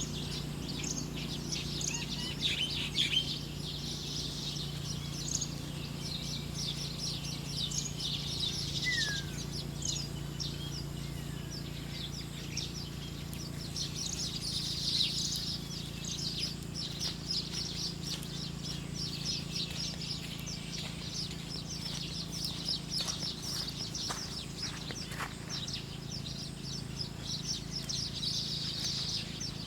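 Small birds chirping: a steady stream of quick, high chirps, with one short falling whistle about nine seconds in. A low steady hum runs underneath.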